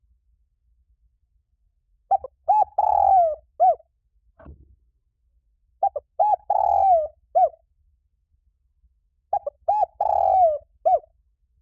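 Spotted dove cooing its territorial song: three phrases a few seconds apart. Each is a couple of quick coos, a longer burry coo that falls at the end, and a short closing coo.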